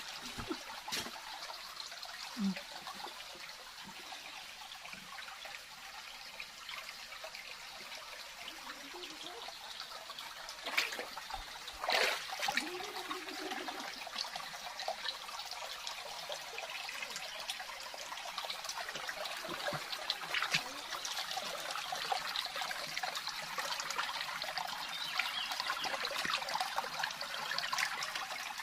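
Water flowing and trickling in a steady rush, with a few brief knocks near the middle.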